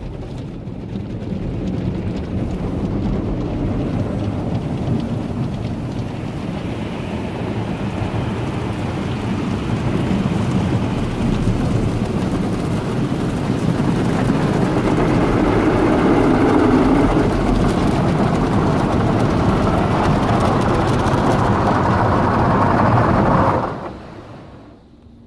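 Automatic car wash's big rotating brush scrubbing over a van, heard from inside the cabin: a loud, steady scrubbing and splashing of brush strips and water on the roof and body. It grows louder through the middle and falls away sharply near the end.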